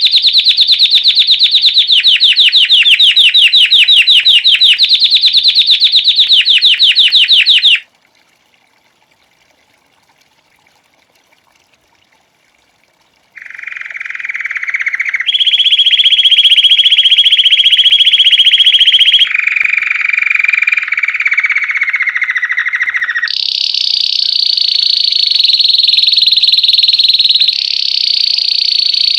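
Belgian canary singing: a fast, high trill for about eight seconds, a pause of about five seconds, then the song resumes as a series of rolled trills, each held a few seconds at its own pitch, starting low and ending high.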